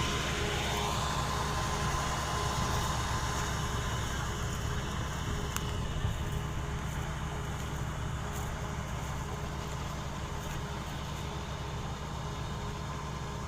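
A heavy engine running steadily, with a whine that falls in pitch in the first second and a single sharp click about five and a half seconds in.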